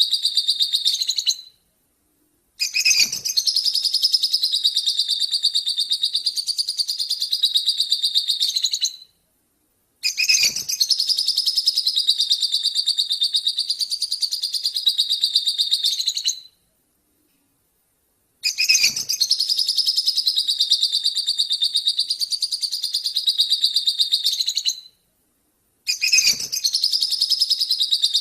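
A small songbird, given as a lobert, singing long fast chattering trills of rapidly repeated high notes. Each phrase lasts several seconds and ends in an abrupt, complete silence of one to two seconds before the next begins, which marks a looped recording. It is a masteran, a song played for cage birds to learn from.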